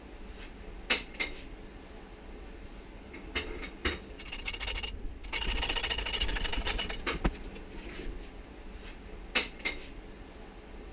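Metal tool work on a motorcycle rear shock clamped in a vise while its spring is being removed: scattered sharp clicks and knocks, and a few seconds of rapid rattling from a tool near the middle.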